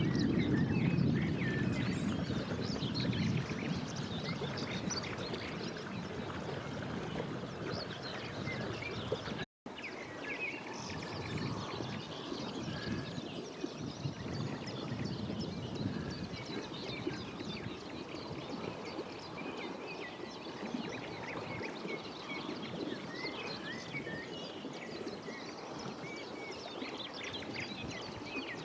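Many birds calling and singing at once, a dense mix of short chirps and calls, with a low rumble under them for the first few seconds. A split-second gap breaks the sound about a third of the way in.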